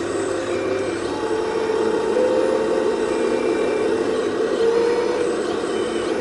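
Full-size excavator's diesel engine running steadily under load while digging, with a whine that wavers slightly up and down.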